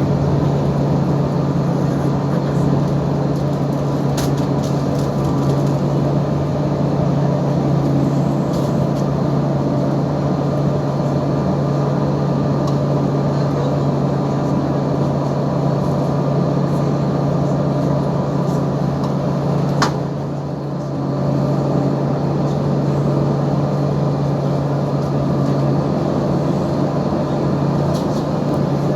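Scania marine diesel engine running steadily, a constant drone with a strong low hum. A sharp click comes about twenty seconds in, and the sound dips briefly just after it.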